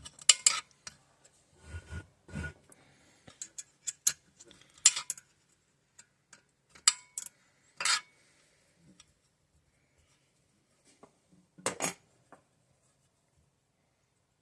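Scattered sharp metallic clicks and clinks of a wrench and steel bolts as the connecting rod cap bolts of a 196cc single-cylinder engine are worked loose, busier in the first half and then sparse, with one louder clank later on.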